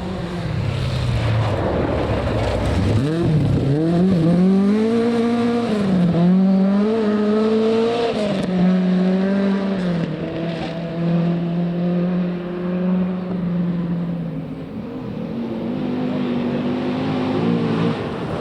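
Rally car engine at full effort on a forest stage, its note climbing and dropping with gear changes, then holding steady for several seconds before rising again near the end.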